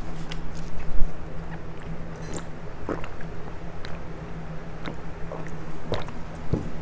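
Close-up mouth sounds of a man chewing pho, with scattered small clicks and a thump about a second in, over a steady low hum.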